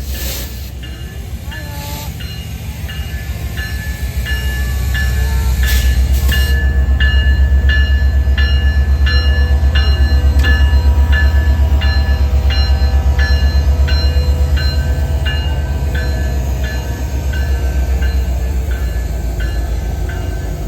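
Train CP 2246 passing: a deep locomotive rumble that builds about four seconds in and eases in the last few seconds, with a regular clicking of wheels over rail joints, a little under two a second.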